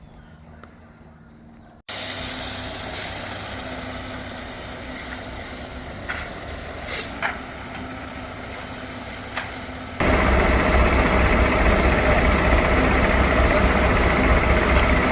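Heavy truck's diesel engine running, with a few short sharp noises over it. The sound jumps louder about two seconds in and again about ten seconds in.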